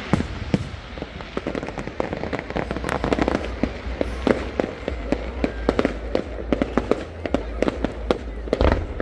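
Fireworks display: many sharp bangs and pops of bursting shells in quick, irregular succession, several a second, thickest in the second half.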